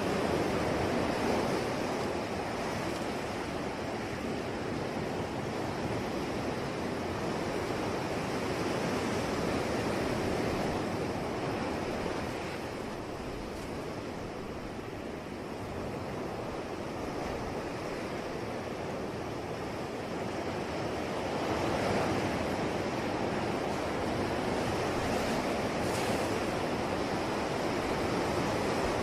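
Ocean surf: a steady wash of breaking waves that swells and eases slowly, softer for a few seconds near the middle and building again later.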